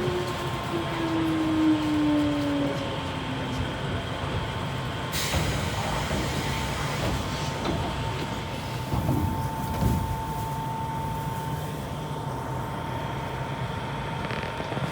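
Running sound inside an Odakyu 1000 series electric train's motor car: steady wheel-and-rail rumble, with the traction motor whine sliding down in pitch over the first few seconds before it stops. About five seconds in a sudden rush of hiss joins the rumble, and a faint steady high tone carries on after it.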